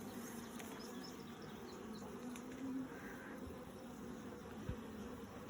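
Honey bees buzzing steadily in a low, many-voiced hum around an opened hive during a frame inspection.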